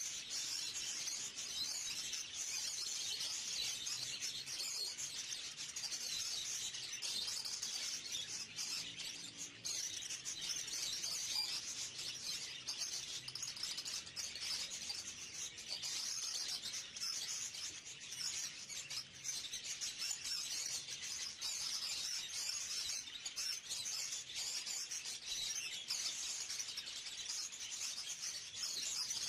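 Many small birds chirping at once in a dense, continuous chatter with no pauses.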